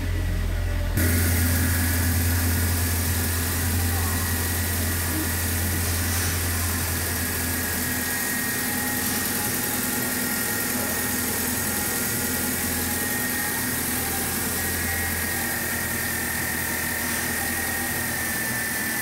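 Hyundai Grand Starex's replacement 2.4-litre G4KG four-cylinder petrol engine idling steadily just after its first start, with a steady whine over a low rumble. It is heard from the cab at first, then close up at the open engine bay after about a second. It runs well, with no extraneous noises.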